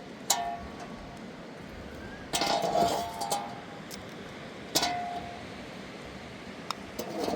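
Kitchenware clinking as it is handled: a few separate knocks that ring briefly, with a busier run of clinks about two to three seconds in.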